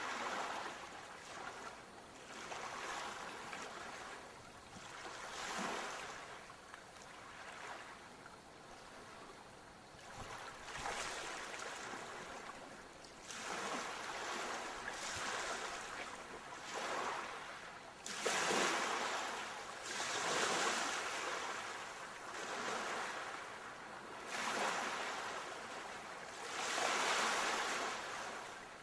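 Sea waves washing onto a shore in a steady rhythm, each surge swelling and then fading every few seconds, with bigger breakers in the second half.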